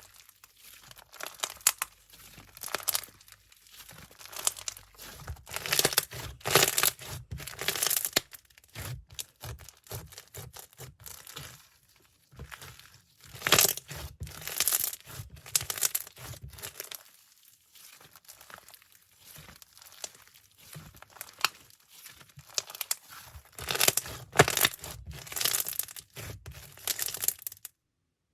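Packaging handled and torn open by hand: irregular crinkling and tearing, loudest in three spells with quieter handling in between, stopping just before the end.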